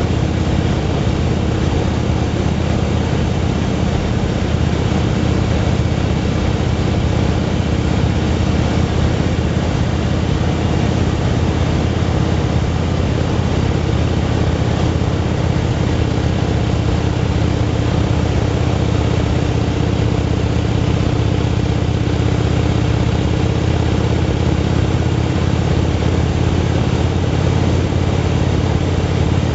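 Motorcycle engine running at a steady cruising speed, its pitch holding even throughout, under a constant rush of noise.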